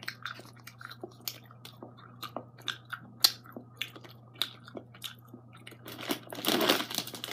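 Close mouth sounds of chewing a sugar-coated sour strawberry gummy candy roll: scattered soft wet clicks and smacks. About six seconds in, a denser, louder rustle.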